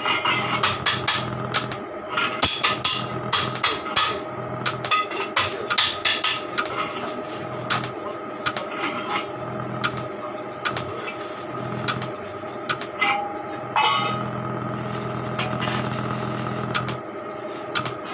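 Hammer striking metal in quick, uneven blows, dense for the first several seconds and sparser later, over a low steady hum that cuts in and out every few seconds.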